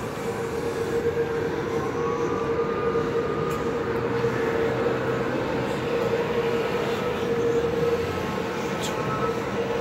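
Metro-North M8 electric multiple-unit train pulling out past the platform: the steady noise of the moving cars, with a steady mid-pitched tone over it.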